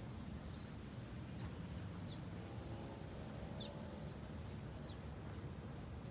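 Birds chirping: short high chirps come a couple of times a second over a steady low rumble, with a faint low warbling call around the middle.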